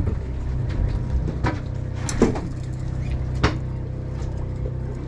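Steady low drone of a boat's engine running, with a few sharp knocks and clatters on deck, the loudest about two seconds in.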